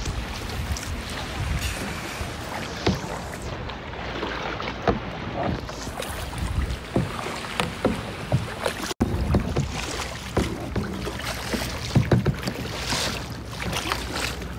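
Water splashing and sloshing around a kayak in uneven bursts, over a steady low rumble, with wind buffeting the microphone.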